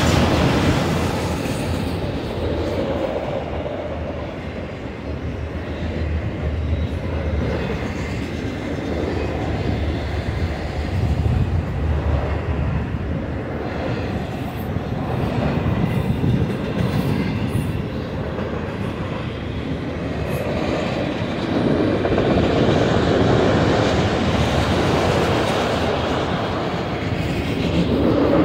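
Union Pacific autorack freight cars rolling past at speed: a steady rumble of steel wheels on rail with clickety-clack from the wheel sets, swelling and easing slightly as the cars go by.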